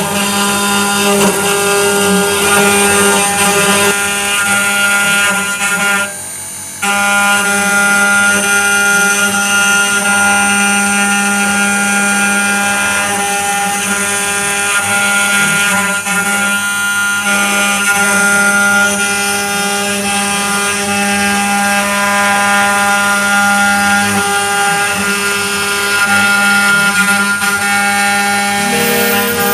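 CNC 3040 desktop router milling 6082 aluminium: a steady spindle whine with several held tones over a haze of cutting noise. The level drops briefly about six seconds in, and the pitch steps up near the end.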